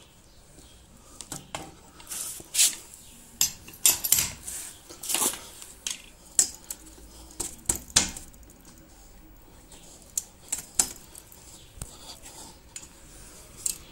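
Hand tools and fittings clinking and clattering while a plastic water pipe is being worked on: a string of irregular sharp metallic clicks and knocks, some with a short scraping hiss.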